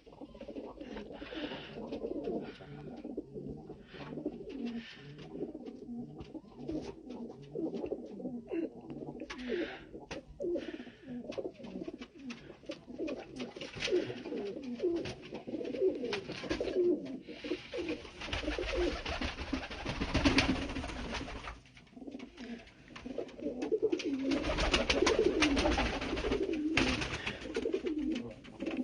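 Domestic pigeons cooing, with many overlapping low, repeated coos. Two louder stretches of noisy scuffling sound come in about two-thirds of the way through and again near the end.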